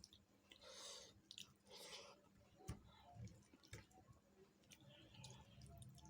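Quiet wet chewing and mouth sounds of someone eating chicken feet in curry gravy: two soft squelches about one and two seconds in, and scattered small clicks.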